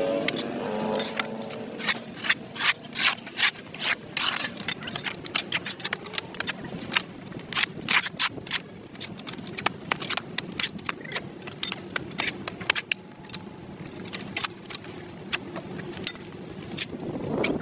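A hand tool scraping caked dirt off a concrete sidewalk in short, irregular strokes, about two to three a second.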